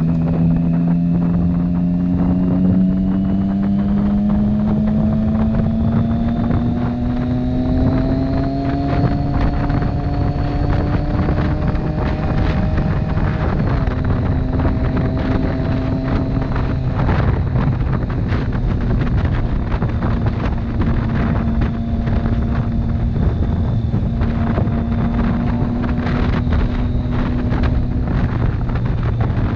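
Motorcycle engine pulling under acceleration, its pitch climbing steadily for about twelve seconds. It drops after a gear change and then runs at a steady cruise. Heavy wind noise buffets the helmet or bike microphone throughout.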